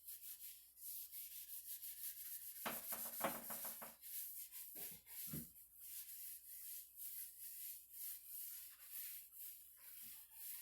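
Quick back-and-forth hand strokes rubbing across the wood of a cedar chest, about three or four a second. A few duller knocks come in the middle.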